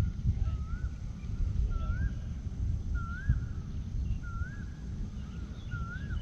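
A bird calling a short whistled note that rises and bends over, repeated about six times at an even pace of roughly one call every second and a quarter, over a steady low rumble.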